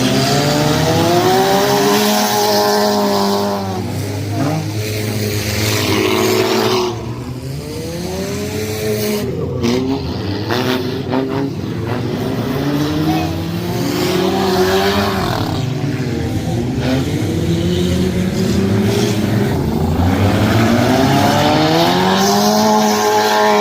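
Junk race cars' engines running hard around the track, revving up and easing off again and again, several at once. The sound is a little quieter around the middle, then builds back up near the end.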